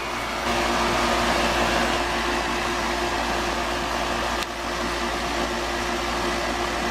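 Outdoor air-conditioning condensing unit running: a steady rush of air from the condenser fan over a steady motor hum. A brief click about four and a half seconds in.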